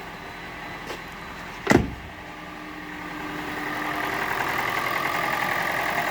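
A single thump a little under two seconds in. Then the Toyota Prius's 1NZ-FXE petrol engine comes in, getting louder over a second or two and then running steadily. It has a knock that the owner thinks may be the VVT-i cam phaser, which on the Prius has no lock pin.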